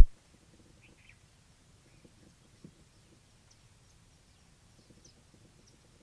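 A sharp low thump at the very start, then a few faint, short bird chirps scattered over a low rumble.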